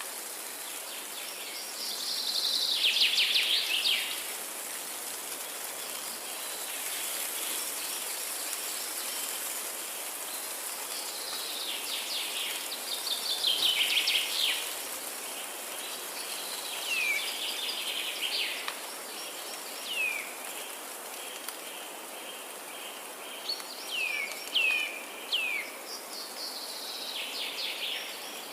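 Forest ambience: a songbird sings several trilled phrases, the loudest about two seconds in and again about halfway through, followed by a few short down-slurred notes. Underneath runs a steady hiss with a thin high whine that may come from insects.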